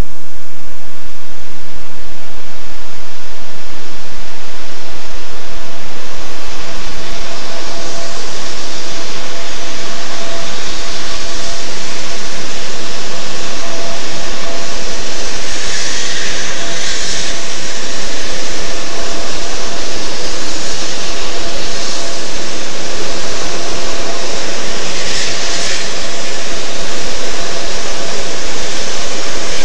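200 series Shinkansen train running at speed: a loud, steady rushing noise with a faint steady tone through it, and two brief hissing swells, one about halfway through and one near the end.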